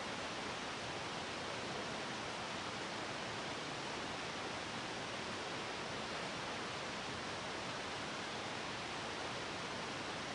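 Steady rushing of waterfalls: an unbroken even roar of falling water that holds the same level throughout.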